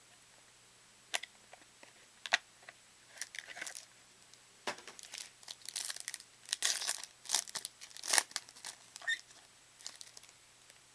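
Trading card pack wrapper crinkling and being torn open by hand, with irregular sharp rustles, sparse at first and busiest about halfway through.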